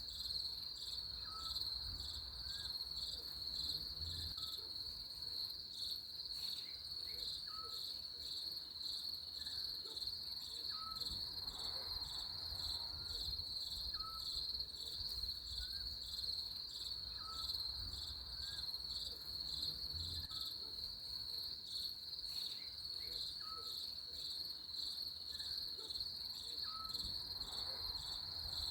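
Crickets chirping in a steady, fast-pulsing high trill, with a short higher chirp repeating every second or two.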